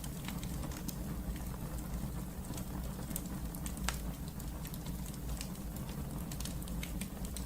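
Wood fire burning in a fireplace: a steady low rumble of the flames with irregular sharp crackles and pops, one louder pop about four seconds in.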